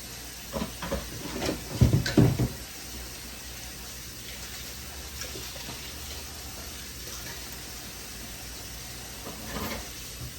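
Washing dishes at a kitchen sink: a tap running steadily, with dishes and utensils clattering for a couple of seconds near the start and again briefly near the end.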